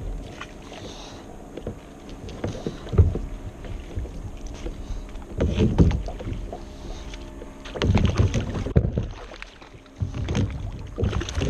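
Water sloshing and knocks against a small fishing boat while a hooked fish is fought to the side. They come in irregular bunches, the biggest about three, six and eight seconds in.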